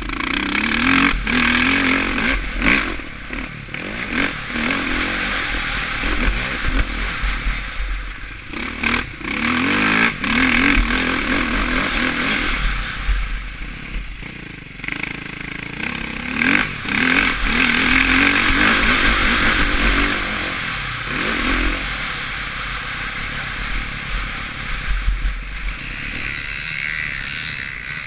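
Suzuki RM-Z450 four-stroke single-cylinder motocross engine revving up and backing off again and again as the bike is ridden round the track, heard from a helmet-mounted camera. Sharp clattering knocks come through now and then.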